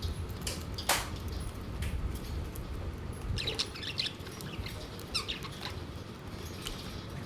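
Pet budgerigars chirping in short clusters of high calls, about three and a half and five seconds in, over a steady low rumble, with one sharp click about a second in.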